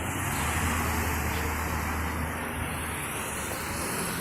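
A motor vehicle's engine drone with road and traffic noise, strongest in the first half and easing off toward the end.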